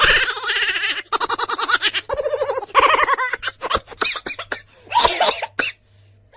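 A person laughing hard in quick repeated bursts, breaking into shorter gasping laughs and stopping about six seconds in.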